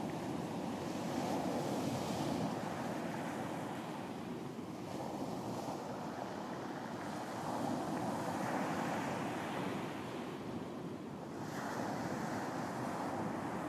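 Ocean surf breaking and washing up a beach, swelling about three times as waves come in, with some wind on the microphone.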